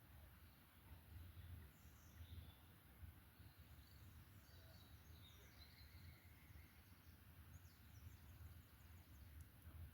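Faint forest ambience: scattered distant bird chirps and a short trill over a low, steady rumble.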